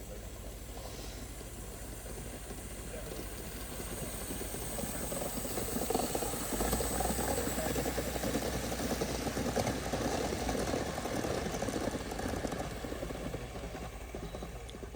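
Gauge 1 live-steam model locomotive running, a steady hiss of steam that grows louder through the middle for several seconds.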